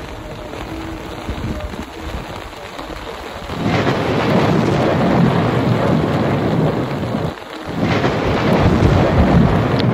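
Heavy monsoon rain pouring down with a steady rushing hiss. About three and a half seconds in it swells into a much louder rumbling rush, which breaks off briefly past the middle and then returns.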